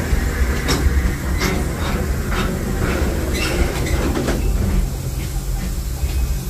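Disneyland Railroad train rolling along its narrow-gauge track, heard from aboard a coach: a steady low rumble with a run of sharp, irregular clacks over the first two-thirds or so.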